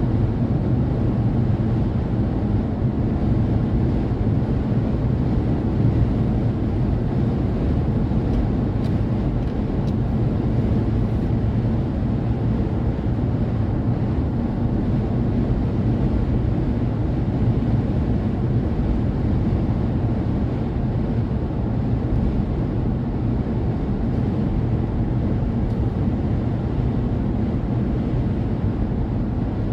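Steady low rumble of a car driving at speed on the highway, road and engine noise with wind, unchanging throughout.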